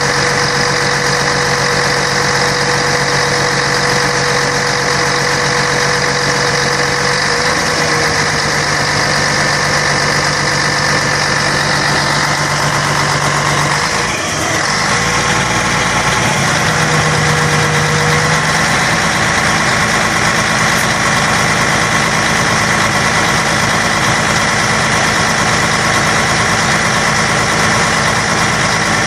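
Scania K113 bus's six-cylinder diesel engine running steadily, with a brief change in its note about halfway through.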